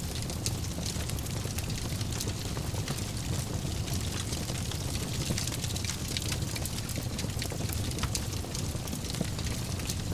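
Wood fire burning in a fireplace, crackling with many small sharp pops over a steady low rumble of the flames.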